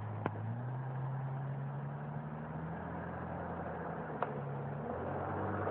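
Jeep engine running at low, steady revs while driving off-road, its pitch stepping up about half a second in and dropping back near the end. Two short clicks stand out over the hum.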